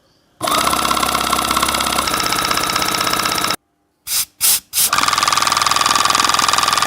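Homemade air compressor running with a fast even pulse, cutting off suddenly, then switched on in three short bursts before running steadily again.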